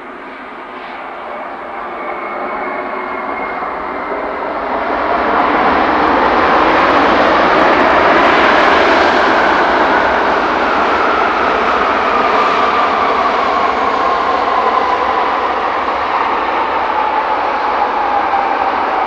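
Airbus A350-900 on arrival, its twin Rolls-Royce Trent XWB turbofans swelling to a loud rush as it passes. Through the second half an engine whine falls steadily in pitch as the jet moves away.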